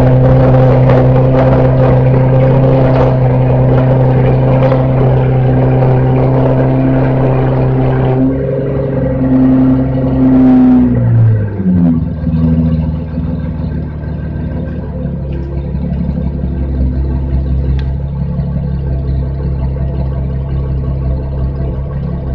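Mercedes-Benz W220 S600's V12 engine heard through its exhaust, held at steady raised revs for about eight seconds, then the revs fall away to a steady idle.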